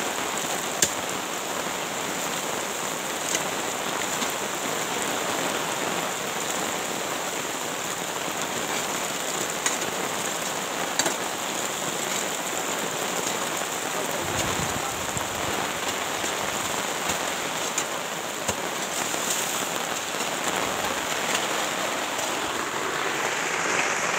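Heavy rain falling steadily, a dense, even hiss, with a few short sharp knocks now and then, the strongest about a second in.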